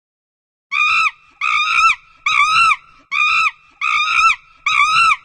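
An animal calling six times in a row: short, high-pitched cries that each rise and fall in pitch, evenly spaced about three-quarters of a second apart.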